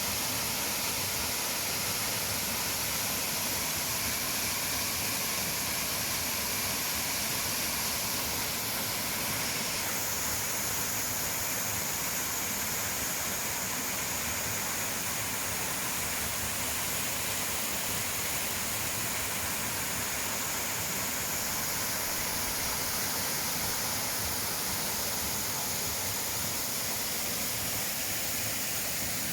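Steady rushing of a tall waterfall, an even wash of falling water with no breaks; its tone shifts slightly about ten seconds in.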